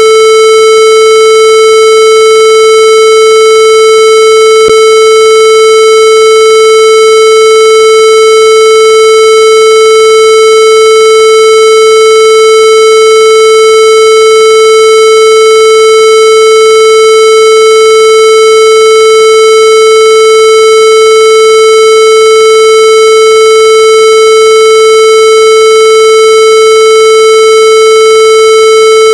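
A loud, steady electronic tone at one fixed pitch, buzzy with many overtones, held without any change in pitch or level.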